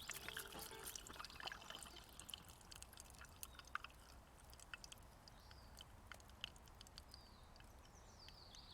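Near silence with faint, scattered, irregular clicks and ticks.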